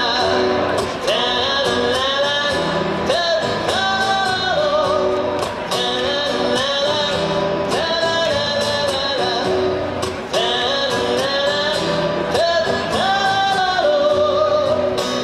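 Live rock band playing in a large hall: a pitched melody repeats in phrases over a steady drum beat and guitars, with no words sung.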